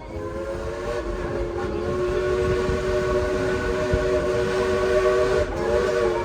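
Steam locomotive's chime whistle blowing one long blast of several notes at once, dipping briefly in pitch about five seconds in before sounding on, over the rumble of the moving train.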